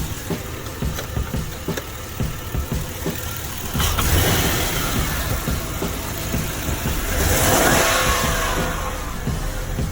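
Car engine running at idle, with a small exhaust leak at a broken bolt. It gets louder about four seconds in, then is revved up and back down about seven to eight and a half seconds in.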